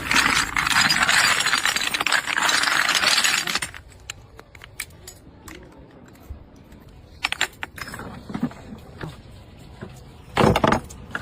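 Small glass perfume bottles clinking and rattling together in a dense, rapid clatter for about the first three and a half seconds. Then come only scattered clinks and a short louder rattle near the end.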